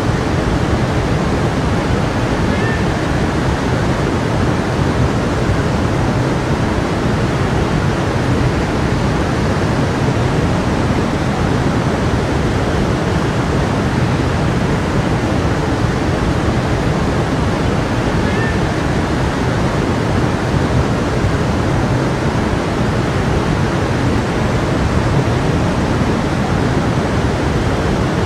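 Stream of water flowing, a steady rushing of water.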